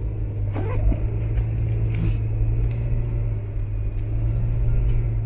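Steady low rumble of a car's engine and tyres heard from inside the cabin while driving, with a short faint pitched sound and a few light clicks about half a second in.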